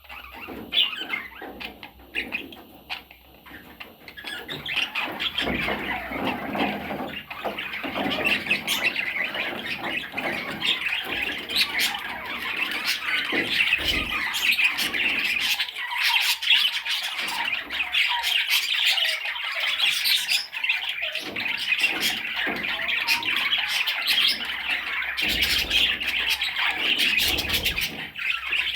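Budgerigar chattering continuously with squawks and clicks, a busy high-pitched warble. It is quieter for the first few seconds and builds up after about four seconds.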